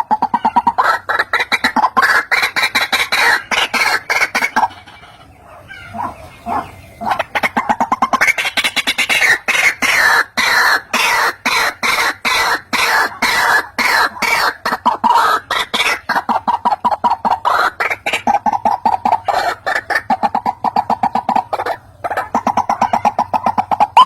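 White-breasted waterhen lure call: a fast run of harsh clucking notes, several a second. It thins out briefly about five seconds in, picks up again, and settles into steadier evenly repeated notes near the end.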